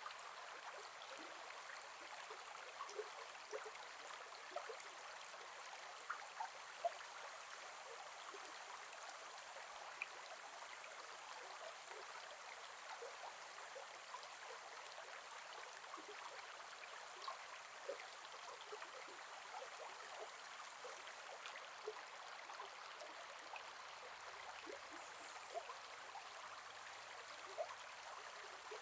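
Gentle forest river flowing steadily, a constant rush of water with small splashes and gurgles scattered through it.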